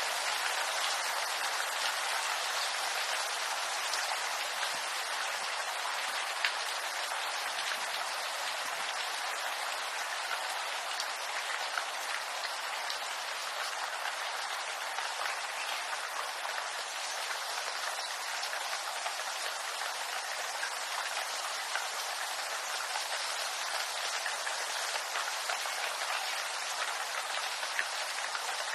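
Steady rain falling on bamboo, an even hiss of drops with many small pattering ticks and an occasional louder drop.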